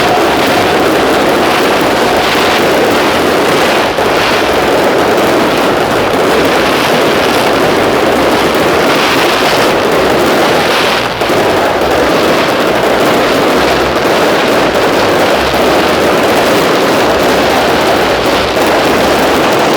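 Fireworks display going off in a dense, unbroken barrage of overlapping bursts and crackle, loud and steady with no single bang standing out.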